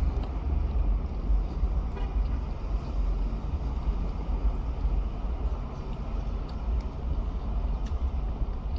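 Steady low rumble of a vehicle engine idling, heard from inside the cab.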